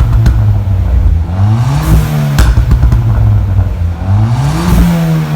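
Ford Fiesta ST200's turbocharged 1.6 EcoBoost four-cylinder blipped twice from idle on its stock exhaust, each rev rising and dropping back. Sharp pops and crackles come as the revs fall, produced by a crackle map tune.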